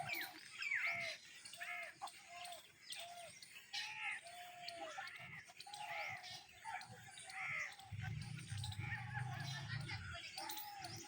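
Many small birds chirping at once: a steady stream of short, overlapping calls, with one arched note repeated over and over.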